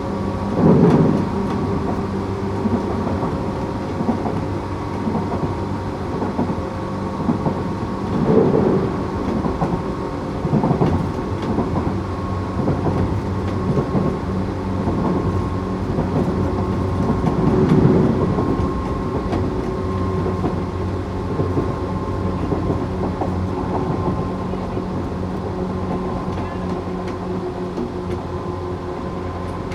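Tokyu 8500 series electric train running at speed, heard from inside the car: a steady hum from its Toyo-built traction motors and running gear over a rumble of wheels on rail. The rumble swells louder about a second in, again around eight and eleven seconds, and around eighteen seconds.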